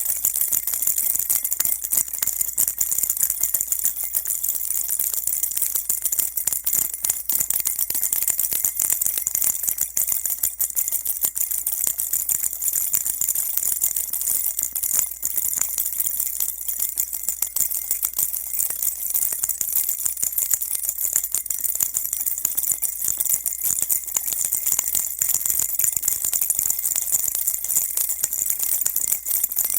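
Baby rattle shaken without a break: a dense, steady stream of high-pitched jingling clicks.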